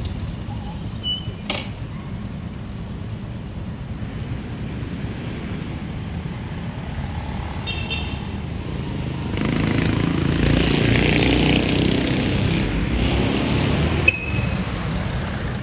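Street traffic rumbling steadily, with a vehicle passing close by about nine to thirteen seconds in. A sharp click comes about a second and a half in, and two short high beeps or chirps come near the end.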